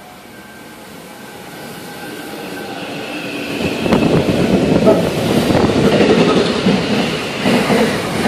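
SEPTA Silverliner V electric multiple-unit commuter train approaching and passing close by. It grows steadily louder for the first few seconds, then becomes a loud rush of wheels on rail with sharp clicks over the rail joints from about four seconds in.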